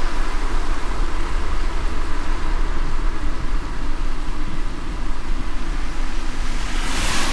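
Car driving in light rain: a steady low road rumble under a hiss of tyres and rain, with a brief louder swish near the end.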